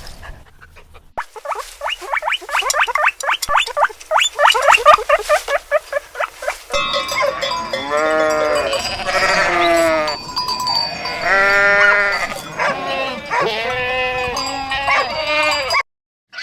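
A fast run of short, high, rising chirps for the first few seconds, then livestock bleating: repeated quavering calls, several overlapping, until shortly before the end.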